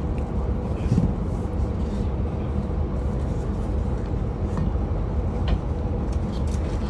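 Passenger train running, heard from inside the carriage: a steady low rumble with a constant hum and occasional small clicks and rattles, including a light knock about a second in.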